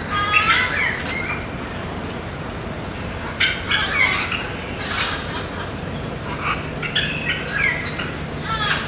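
Parrot squawking: a run of short, harsh calls, several in quick succession in the first second and more at intervals through the rest, over a steady background hiss.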